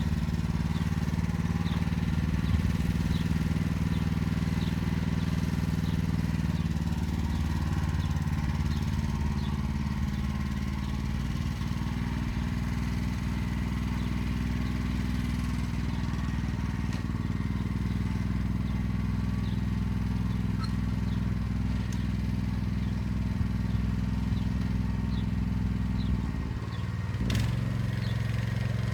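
Motor Sich walk-behind tractor engine running steadily under load while pulling an arrow-shaped hiller through the rows. Its pitch shifts slightly about a third of the way in and dips briefly near the end.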